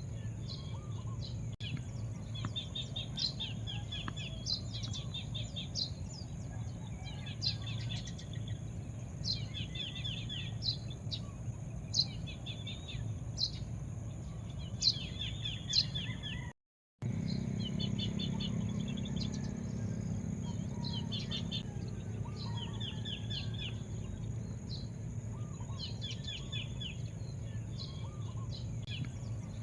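Birds chirping in short, fast repeated phrases every second or two, over a steady high-pitched hum and a low background rumble. The sound cuts out completely for a moment about two-thirds of the way through.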